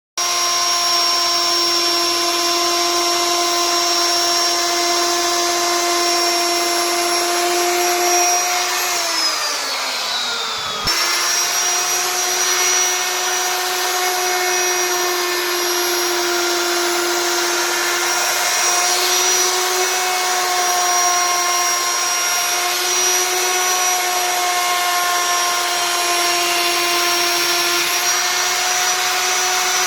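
CNC router spindle running with a steady high-pitched whine as it carves wood. About nine seconds in the whine slides down in pitch, then it comes back abruptly at its steady pitch a couple of seconds later.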